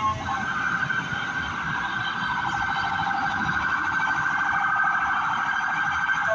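Fire engine siren sounding a rapid yelp, warbling quickly up and down in pitch, over a low rumble. It starts just after the beginning and switches off at the end.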